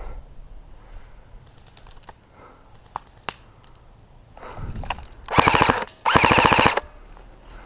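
Airsoft electric gun firing two short full-auto bursts in quick succession, about five and a half seconds in: a rapid even rattle of shots. The second burst is a little longer than the first. A few faint single clicks come a few seconds earlier.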